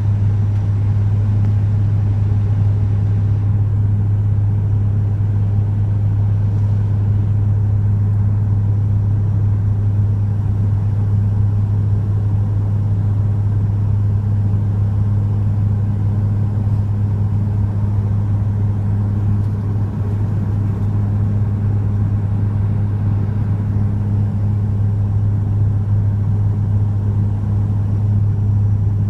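Passenger airliner's engines and airflow heard as a steady low hum, unchanging throughout, during the approach to landing.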